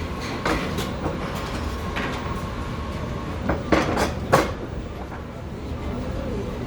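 Café background noise: a steady low rumble with a few sharp clatters of dishes about four seconds in.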